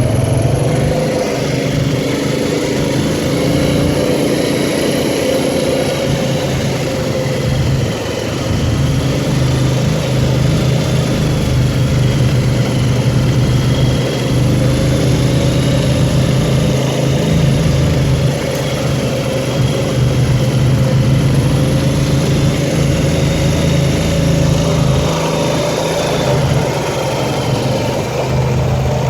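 ATV engine running steadily while under way, its pitch rising and falling a little with the throttle.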